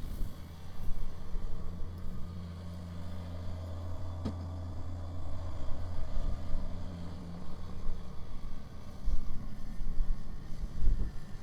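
Kubota BX sub-compact tractor's diesel engine running steadily while working a rear-mounted snow blower, its low hum swelling and easing under changing load.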